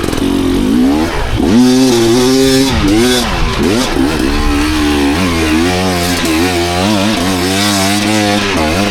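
Enduro dirt bike engine ridden hard, its revs rising and falling over and over as the throttle is worked, with a few deep drops in pitch in the first half.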